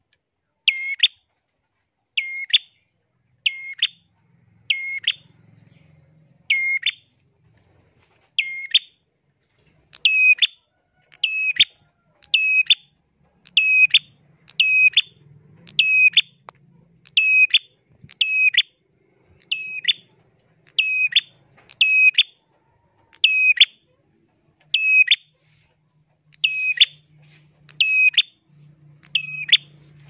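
Caged prenjak calling: a loud, sharp, high two-part chirp repeated over and over. It comes about every second and a half at first, then quickens to a little more than one a second.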